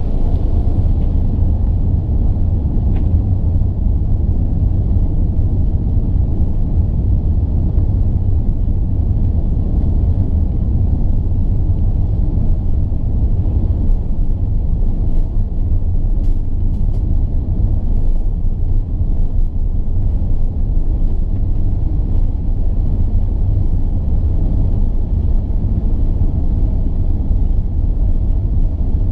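Steady low rumble of an Airbus A380-861 heard from inside the passenger cabin during takeoff: jet engine noise and airframe rumble, level throughout.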